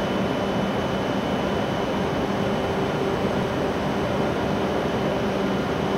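Steady hum and hiss of a stationary W7 series shinkansen's air-conditioning and auxiliary equipment, with a faint high-pitched whine held throughout.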